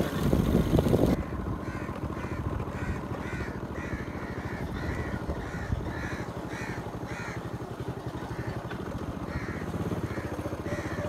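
A bird calling a quick run of short, evenly spaced notes, about two a second, from about a second and a half in until past the middle, with a few more near the end. A steady low rumble runs underneath, and a burst of loud rough noise fills the first second.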